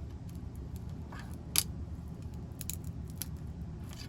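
A few short, sharp plastic clicks and snips from handling a plastic headband while working a decoration off it, the loudest about one and a half seconds in, over a low steady room hum.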